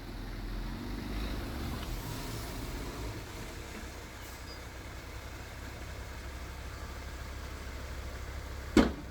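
Heavy diesel engine of earthmoving machinery running steadily at low revs, a low rumble that swells a little in the first few seconds. A single sharp knock sounds near the end.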